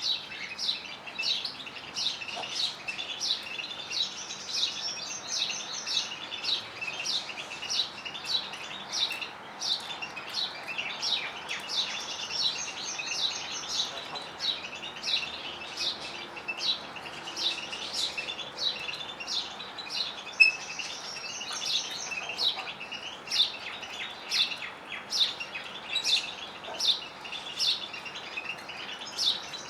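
Canaries and European goldfinches singing: an unbroken stream of quick, high chirps and trills, several notes a second, with one sharp louder note about two-thirds of the way through.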